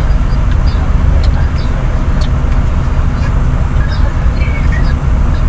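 Volvo semi truck's diesel engine idling, a steady low rumble heard inside the cab; it is left running because the truck has no APU to cool the cab.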